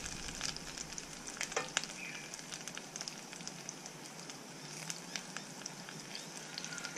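Flathead fillets and potato chips sizzling as they shallow-fry in oil in a frying pan, with a steady crackling hiss. A few light clicks of a metal fork against the pan come as the fillets are turned.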